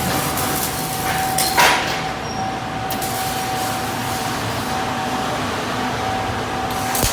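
Welding-shop workshop noise: a steady mechanical din with a constant thin tone through it, and a single sharp knock about a second and a half in.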